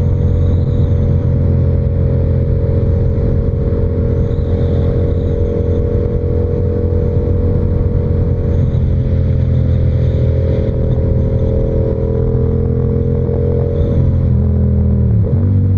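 Yamaha R7's 689 cc parallel-twin engine through an SC-Project exhaust, cruising at a steady speed under light throttle. Near the end the engine pitch dips and then jumps back up.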